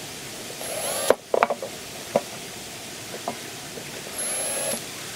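Two short bursts from a small power tool, each about half a second, one about a second in and one near the end, with scattered clicks and knocks of parts being handled between them.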